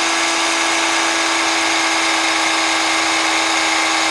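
Electric drill running at a steady speed with a steady whine, boring a hole through a wooden plate.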